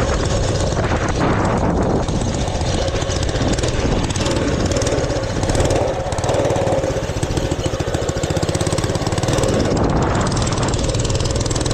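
Mini bike's small engine running steadily under way, a rapid low firing pulse with a constant hum.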